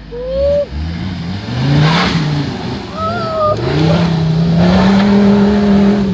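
Off-road vehicle engine revving in repeated rising and falling surges, then held high for the last couple of seconds.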